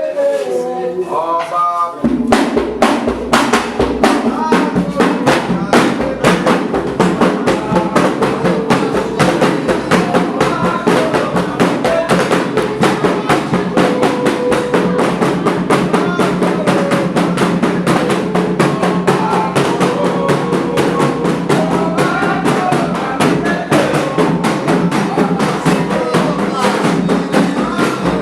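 Candomblé ritual song: singing voices alone at first, then about two seconds in the hand drums (atabaques) come in with a fast, dense beat under the singing, which carries on.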